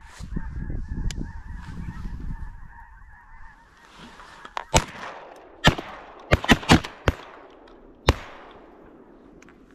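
Geese honking for the first few seconds, then a quick volley of about eight shotgun blasts between roughly five and eight seconds in.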